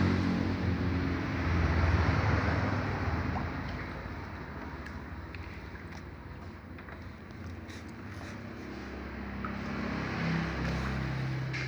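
Motor vehicle noise: a low engine hum with broad rushing noise that swells about two seconds in, fades, and builds again near the end, like traffic passing.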